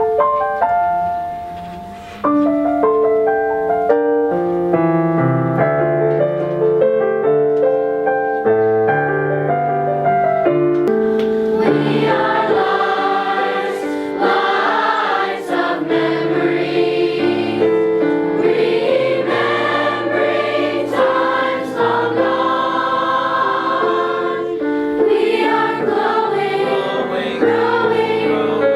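A choir singing with piano accompaniment. The piano plays alone for about the first ten seconds, and the voices come in at about 12 seconds.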